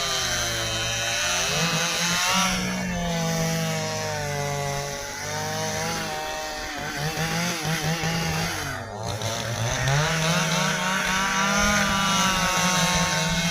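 Stihl two-stroke chainsaw cutting through a log of dry ipê hardwood. The engine pitch rises and falls as the chain works under load, sags sharply about nine seconds in, then climbs again.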